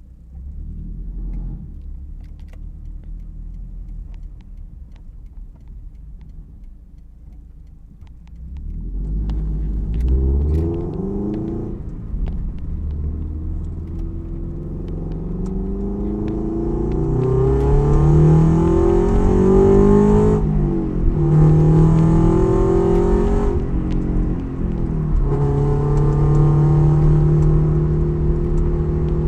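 Toyota 86's FA20 boxer four-cylinder with unequal-length headers and an aftermarket exhaust, a low rumble at first. From about nine seconds in the engine note gets louder and climbs, rising and dropping back several times as the car accelerates, then settles to a steadier note near the end.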